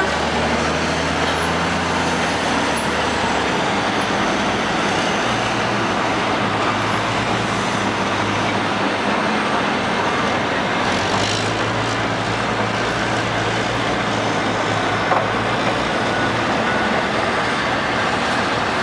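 Heavy diesel engines of oilfield rig-moving equipment running under load, with a steady dense din and a low engine note that shifts pitch a few times.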